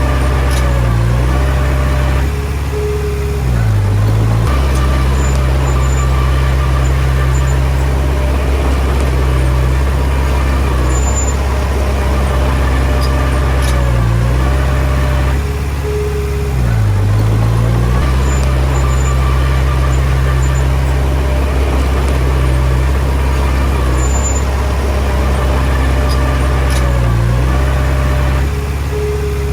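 Komatsu D20P bulldozer's diesel engine working steadily, its pitch dipping and recovering three times at even spacing, about every thirteen seconds.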